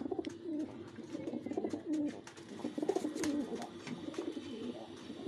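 Fantail pigeons cooing repeatedly, low wavering coos, with a few short clicks.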